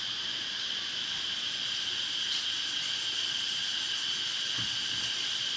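A steady chorus of insects shrilling on one unbroken high note, with a few faint low knocks near the end.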